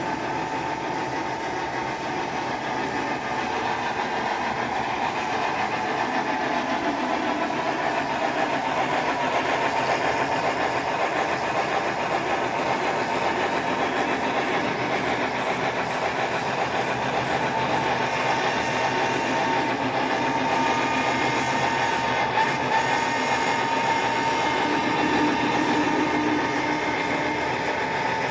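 HO scale brass 2-6-6-2 model steam locomotive running on the layout, its TCS WOW sound decoder playing steam locomotive running sounds through the small onboard speaker, with motor and wheel noise on the track.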